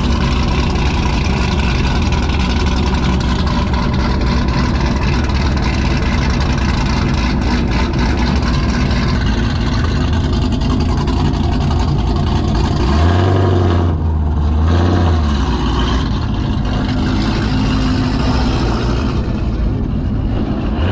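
Car engine running steadily, then revved up and let back down once about two-thirds of the way through.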